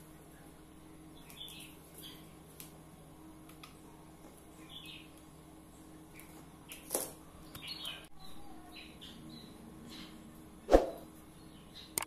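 Small birds chirping in short calls now and then, over light metallic clicks of pliers working the cage's wire mesh, with one sharp knock near the end.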